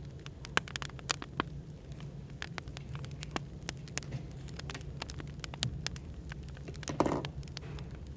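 Wood fire crackling, with frequent irregular sharp pops, over a steady low hum of background noise. There is a louder, fuller burst about seven seconds in.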